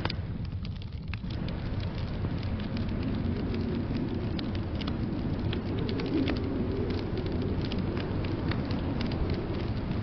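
Wood fire crackling, with many small sharp pops and snaps scattered irregularly over a steady low rumble. The higher hiss thins out for about the first second.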